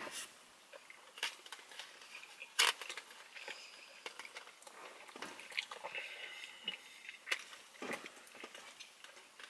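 Quiet chewing and mouth noises of people eating hot dogs in buns, with scattered soft clicks and small knocks.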